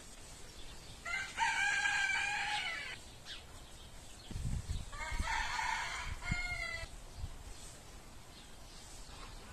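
A rooster crowing twice, each crow a long call of nearly two seconds.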